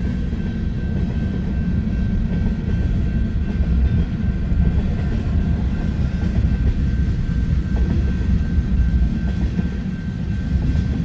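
Freight train cars rolling past at close range: a steady low rumble of wheels on rail, with a faint steady high tone over it.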